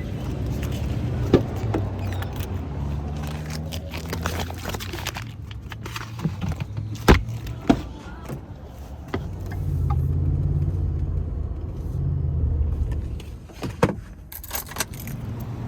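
A vehicle's engine runs with a low hum that swells twice, with several sharp clicks and knocks over it.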